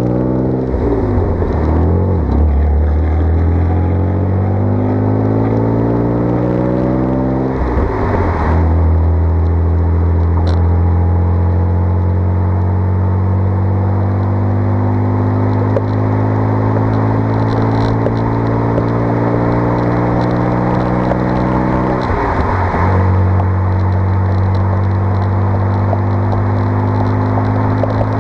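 1992 Dodge Stealth twin-turbo V6 accelerating hard through the gears. The engine note climbs steadily, drops sharply at an upshift about 8 seconds in and again at about 22 seconds, then rises again each time.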